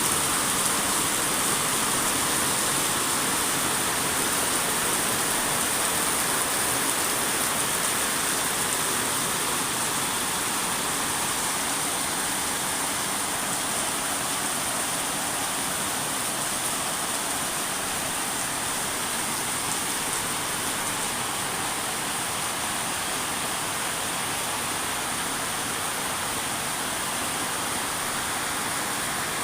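Steady rain falling: an even hiss without breaks or separate events.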